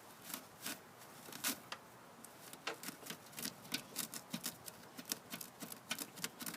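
Razor blade cutting and scraping at Spanish moss and cloth wound tightly around a walk-behind mower's drive axle: a run of irregular, sharp little clicks and snips, several a second.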